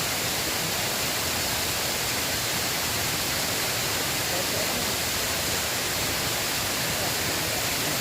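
Steady rushing of flowing river water, an even hiss with no breaks or changes.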